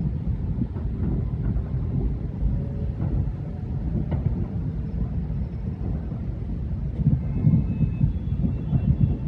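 Thousands of distant fireworks merging into a continuous low rolling rumble, like far-off thunder, with a few fainter sharp cracks standing out, more of them near the end.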